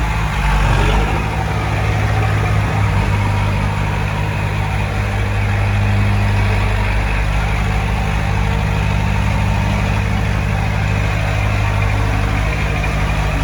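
Heavy-equipment diesel engine running steadily with a deep, even hum, swelling briefly about a second in.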